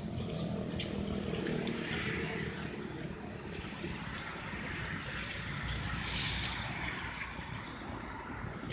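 Steady motor-vehicle traffic noise, a continuous rumble and hiss without sharp events.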